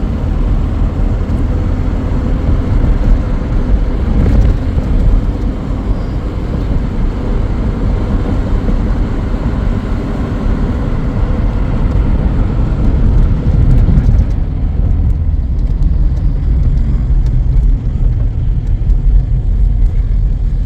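A car driving along: steady low rumble of engine and road noise. The higher hiss drops away about two-thirds of the way through.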